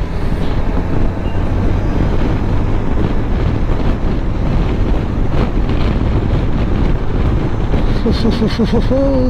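Wind buffeting a riding motorcycle's microphone over a steady drone of engine and road noise.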